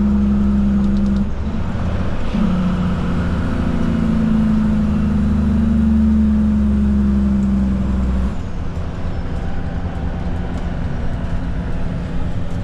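Truck's diesel engine running, its note rising a little about two seconds in, holding, then dropping back about eight seconds in.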